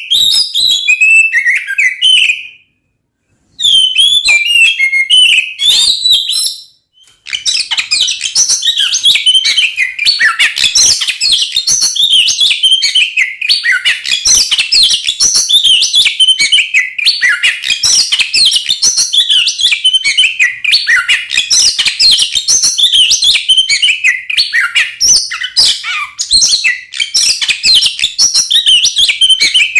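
An oriental magpie-robin (kacer) sings loudly in rapid, varied phrases of whistles, sweeps and chattering notes. This is the fast, aggressive fighting-style song that keepers play to provoke other males. The song breaks off twice for a moment in the first seven seconds, then runs on without a pause.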